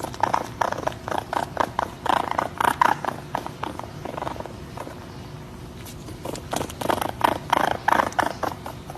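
Animal cries: many short, quick calls in runs, which thin out in the middle and pick up again before fading near the end.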